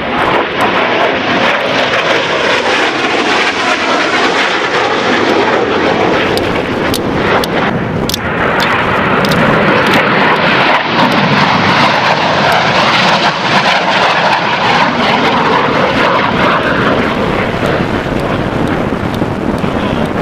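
Fixed-wing aircraft engine noise, a loud steady rush that brightens and grows slightly louder about eight seconds in.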